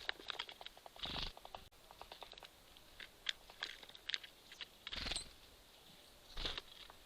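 Small birds pecking and rummaging among sunflower seeds and nuts in a squirrel feeder: a scatter of sharp taps and clicks, with three louder brief scuffles, about a second in, near five seconds and at six and a half seconds.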